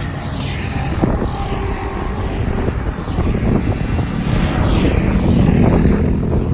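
Motorbike engines going past, with a steady rumble and a falling pitch as each one passes, once near the start and again about four seconds in.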